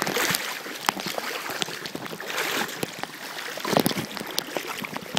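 A person wading through floodwater, the water sloshing and splashing around the legs in several swells with each stride.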